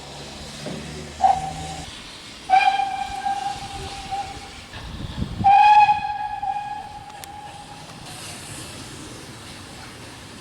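Steam locomotive whistle sounding three times at one steady pitch: a short pip, then two longer blasts a few seconds apart, the last the longest and loudest.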